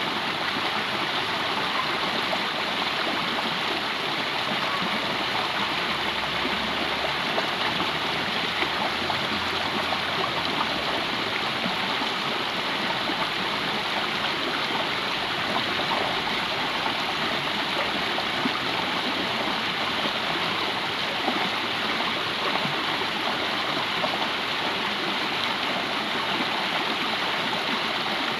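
Water of a stream running steadily, an even rushing sound with no breaks.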